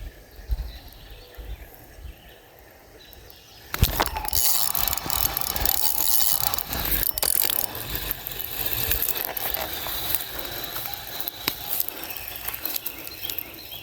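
Spinning fishing reel being cranked, a continuous mechanical whirring and clicking that starts suddenly about four seconds in, as a swimbait is retrieved.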